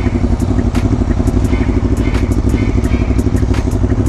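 Motorcycle engine running steadily at even revs, picked up by a camera mounted on the bike itself, with frequent sharp clicks or rattles on top.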